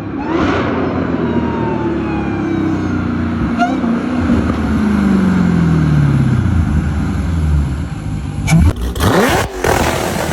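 American V8 car engine running, its pitch sliding steadily down over several seconds as the revs fall or the car goes by. Near the end the sound changes abruptly to a series of sharp cracks and a quick rising rev.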